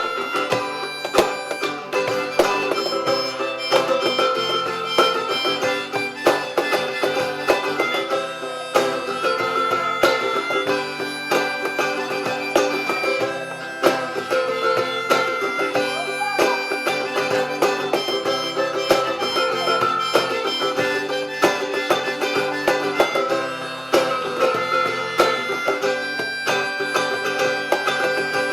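Live instrumental passage: acoustic guitar with hand percussion striking steadily and a held-note melodic lead over them.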